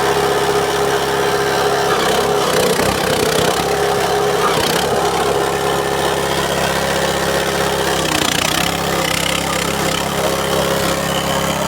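Motor-driven cassava grinding machine running steadily, its hum wavering briefly about two to three seconds in and again near eight seconds.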